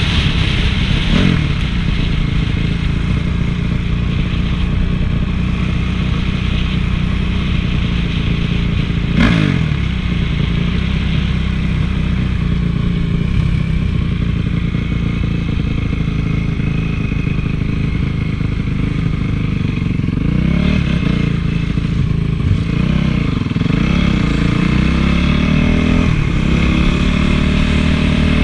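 Honda CRF450 four-stroke single-cylinder motocross bike engine running while ridden, steady for most of the time, then revving up and down repeatedly near the end. There is one sharp knock about nine seconds in.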